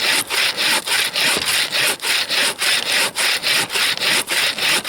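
Bow saw cutting through a frozen fir log with quick, even back-and-forth strokes, about three a second.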